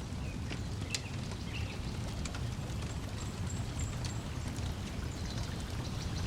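Lakeside ambience: a steady low wash of water lapping at the shore, with scattered sharp crackles and pops from a wood fire and a few brief, high bird chirps.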